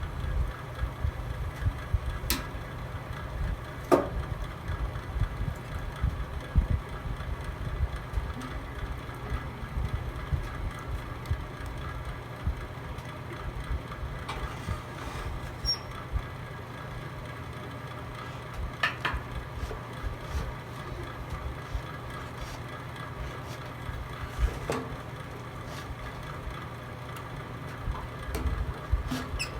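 Log fire burning in a fireplace: a steady low rumble of the flames with a few sharp crackles and pops from the wood, about one every few seconds.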